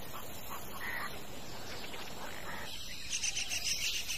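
Forest ambience: a few faint bird calls, then from about three seconds in, insects start chirping in a rapid, even pulse that carries on.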